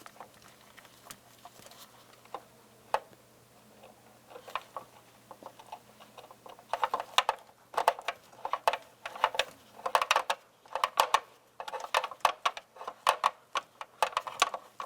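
Irregular clicking and rustling from a wire harness being fed through a tube into the vehicle cab, sparse at first and coming in quick clusters from about halfway on.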